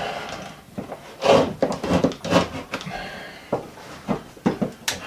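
Irregular scraping and rubbing with short knocks and clicks, as a hand tool digs at a screw head buried in drywall.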